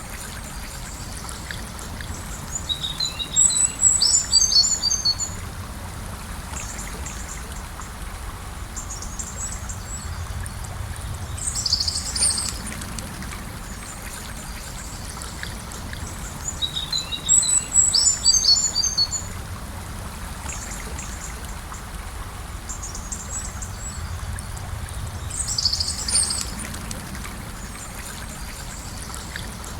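Gentle river flowing with a steady rushing and trickling of water. A bird sings short bursts of high chirping notes every several seconds over it, louder than the water.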